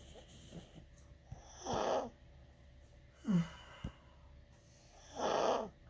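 Sleeping dog snoring heavily: two long rasping snores about three and a half seconds apart, with a shorter sound falling in pitch between them.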